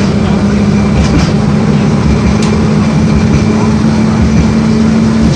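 LVS-86K articulated tram running along the track, heard from a ride aboard: loud steady running noise with a low hum that cuts off near the end, and a few sharp clicks.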